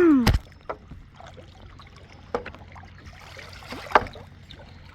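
Small splashes and trickles of river water around a paddle boat, over a low steady rumble, with a sharper knock about four seconds in. A voice trails off at the very start.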